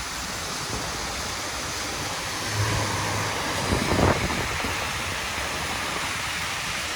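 Steady hiss of tyres on wet, rain-soaked pavement mixed with wind on the microphone, with a low hum about two and a half seconds in and a brief louder swell about four seconds in.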